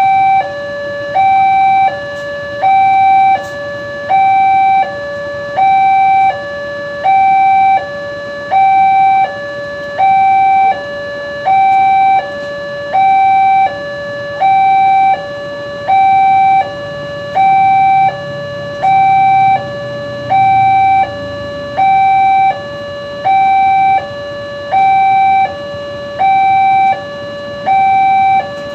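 Railroad level-crossing warning alarm sounding a loud electronic two-tone signal: a higher and a lower tone alternate evenly, about one high-low cycle every second and a third. This is the warning that a train is approaching and the crossing is closing.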